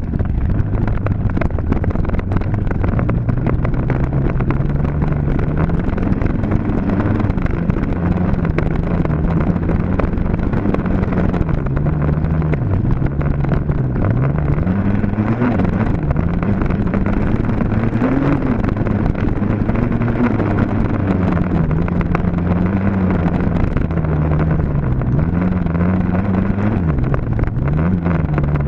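Dirt bike engine running hard, its pitch rising and falling every second or two as the throttle is opened and chopped, with a rough noisy rumble underneath.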